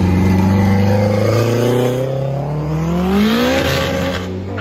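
Tuned performance car engine under acceleration: its pitch holds steady, then rises from about two seconds in, levels off, and dips briefly near the end.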